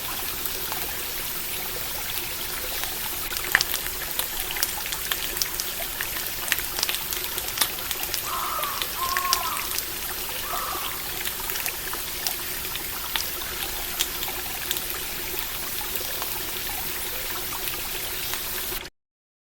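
A stream trickling steadily under the scattered crackle of a campfire. Around the middle come three short arched calls, and the sound cuts off suddenly near the end.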